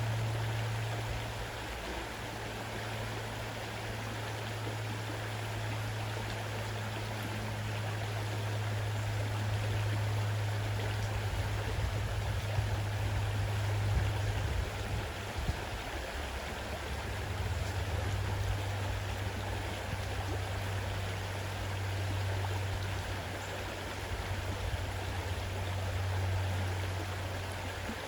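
Fast-running river water, a steady rushing and splashing, with a steady low hum underneath.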